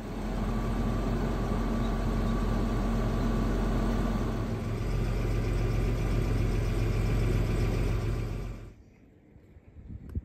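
A 1979 Jaguar 4.2-litre straight-six engine idling steadily, then stopping abruptly near the end.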